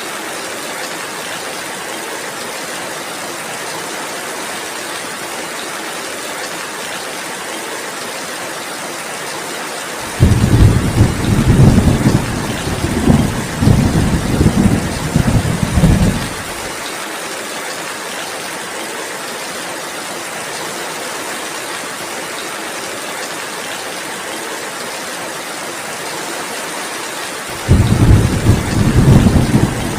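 Steady rain falling as an even hiss, with two long rolls of thunder: one starting suddenly about ten seconds in and rumbling for about six seconds, and another starting a couple of seconds before the end.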